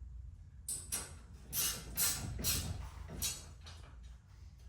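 Short metallic rasping strokes, roughly two a second, from a wrench tightening the set screws on a garage door torsion spring's winding cone against the torsion tube once the spring is fully wound.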